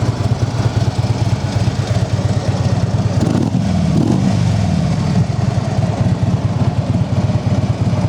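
2015 Harley-Davidson Tri Glide's 103 cubic inch V-twin idling through upgraded aftermarket mufflers, with one throttle blip about three seconds in that rises and falls back to idle over a couple of seconds.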